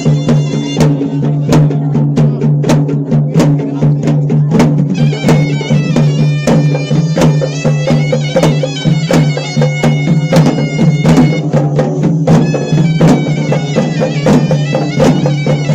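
Traditional music: a reedy, bagpipe-like wind instrument plays a melody over a steady low drone, with frequent drum strokes.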